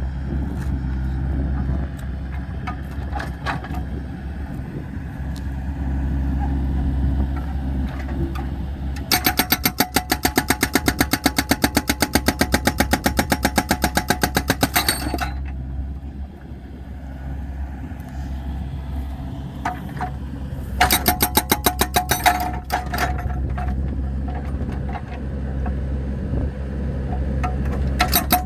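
Excavator's diesel engine running steadily, with spells of fast, evenly spaced clattering strikes, the first lasting about six seconds, as the machine works on the firewood.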